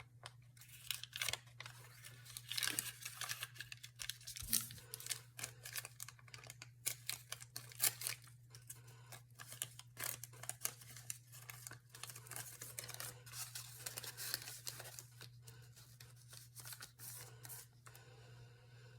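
Craft paper scraps being sorted through by hand: irregular rustling, crinkling and tearing of paper over a steady low hum.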